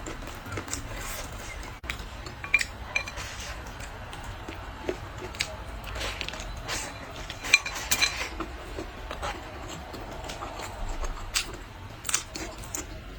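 Eating utensils clinking and tapping against bowls and plates: scattered short clinks, a few of them ringing briefly.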